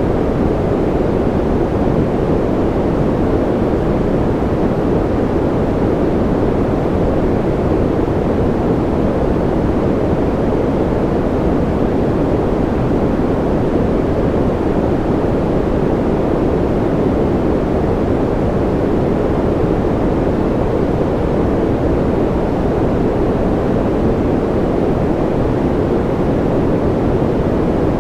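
Steady noise track sold as white noise for sleep: an even, unchanging deep rushing that is strongest low down, with little hiss on top.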